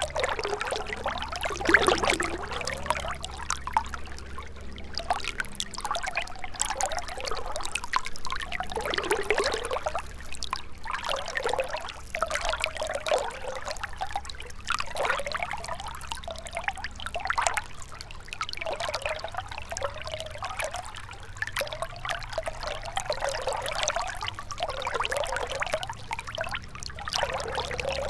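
Shallow river water running and trickling over stones, with a continuous babble of small gurgles.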